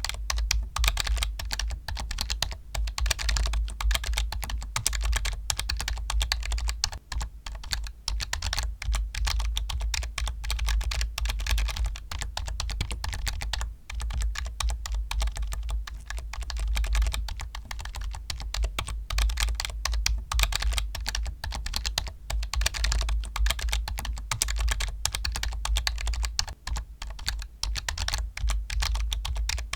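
Computer keyboard being typed on continuously: fast, dense key clicks, each with a low thud beneath it. The typing pauses briefly twice.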